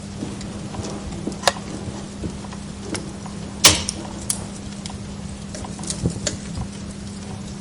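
Wood log fire crackling in a fireplace: irregular small pops and snaps, with one loud sharp pop about three and a half seconds in and another about a second and a half in, over a steady low hum.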